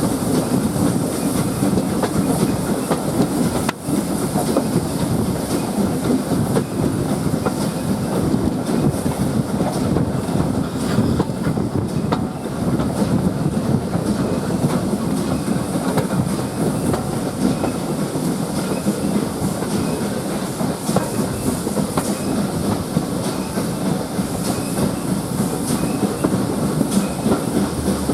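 Steam-hauled heritage train running steadily behind the GWR Prairie tank engine 5526, its carriage wheels rumbling along the track with a light clicking over the rail joints.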